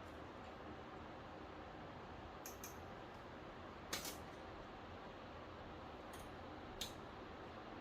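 A few short, light clicks spread out over a steady low hiss: small hard parts being handled or tapped.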